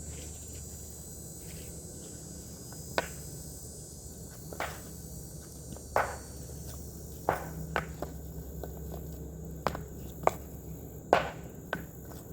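Manual digging and stone work in rocky soil: about nine sharp strikes at irregular intervals, a second or two apart, of a tool or stone hitting ground and rock.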